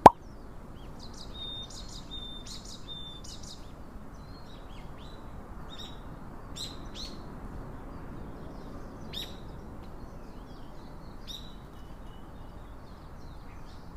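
Birds chirping and calling: scattered short, high chirps and a few held whistled notes throughout, over a steady low background hiss. A single sharp click right at the start.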